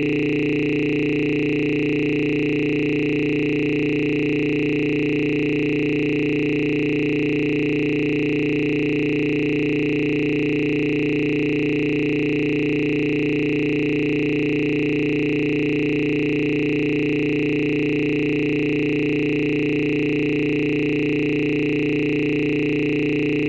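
A steady electronic drone of several pitches held together, loud and unchanging throughout, with no beat or melody.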